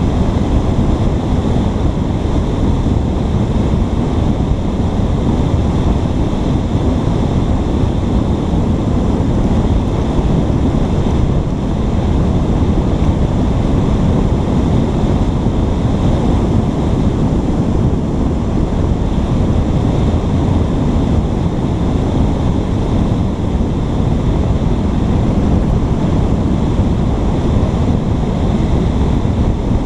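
Steady, loud rush and rumble of wind on a GoPro's microphone, with no breaks or distinct events.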